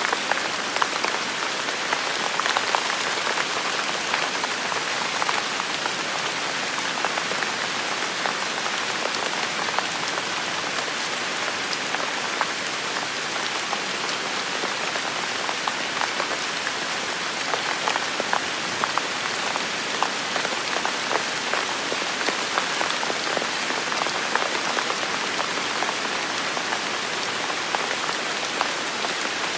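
Heavy rain falling steadily, a dense hiss with many individual drops ticking and pattering on leaves and surfaces.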